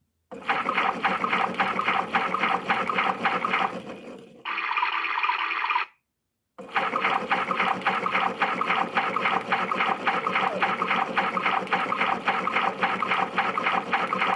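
Battery-powered PlayGo toy washing machine playing its electronic water-and-washing sound effect through its small speaker, a rhythmic sloshing pulse about three times a second. About six seconds in it switches to a thinner sound, cuts out abruptly, then restarts, as the programme changes.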